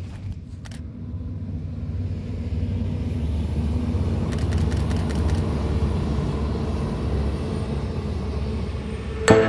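Red regional diesel multiple unit passing at speed: a low engine and rolling rumble that swells for a few seconds and then eases as the train moves off, with a quick run of clicks near the middle. Music cuts in abruptly at the very end.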